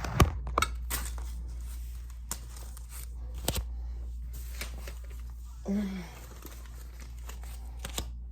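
Paper banknotes crinkling and rustling as they are counted by hand, with several sharp flicks as bills are pulled off the stack.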